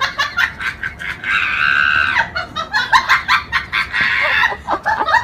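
Poultry clucking and squawking in a rapid run of short calls, with one longer squawk held for about a second a little over a second in.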